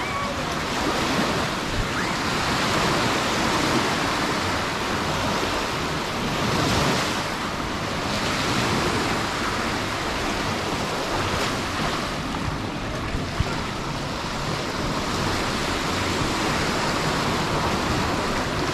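Sea waves breaking and washing up a beach: a steady rush that swells a few times as waves come in.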